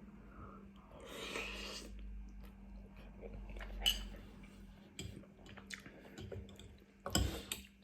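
Close-up eating sounds of spicy noodles and rice cakes being chewed, with utensils clicking against a bowl. A longer noisy burst comes about a second in and a louder, short one near the end.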